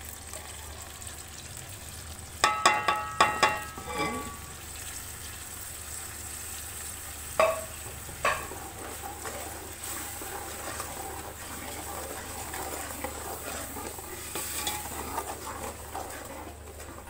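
Onions and spice paste sizzling as they fry in ghee in a metal pot, stirred with a ladle. A quick run of ringing metal clanks against the pot comes about two and a half seconds in, then two sharper knocks around seven to eight seconds.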